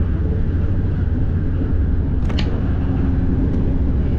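Train running with a steady low rumble, and a brief high squeak a little over two seconds in.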